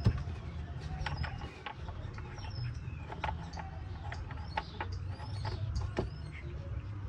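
Plastic engine oil filler cap being twisted off and handled: irregular creaks and light clicks.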